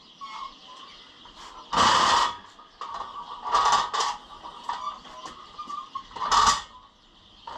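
Creaking and three loud scraping clunks as a heavy milling machine is shifted on moving dollies.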